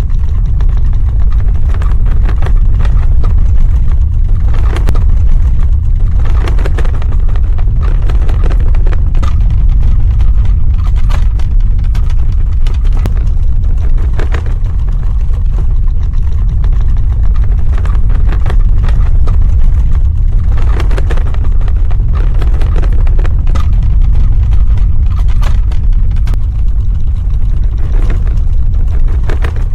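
Earthquake sound effect: a loud, continuous deep rumble with scattered faint crackles above it.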